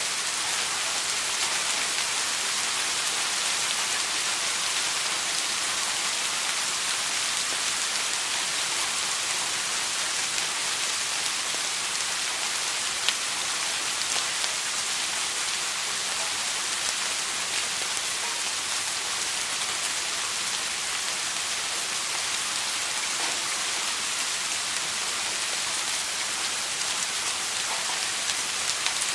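Steady rain falling, an even hiss with a few sharper drops ticking through it, one standing out about halfway through.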